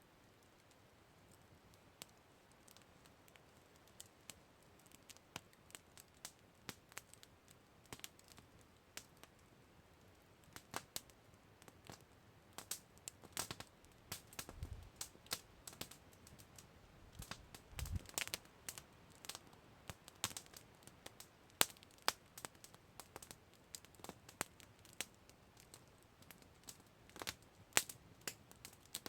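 Wood campfire crackling: irregular sharp pops and snaps, sparse at first and coming thicker about halfway through, with a couple of deeper, louder pops in the middle.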